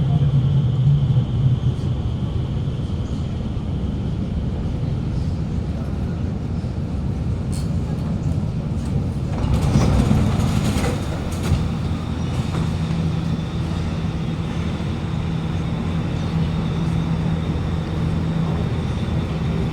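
Alstom Movia R151 metro train standing at an underground platform with its doors open: a steady low hum from the idle train, with a thin high steady whine. The noise swells for a couple of seconds about ten seconds in.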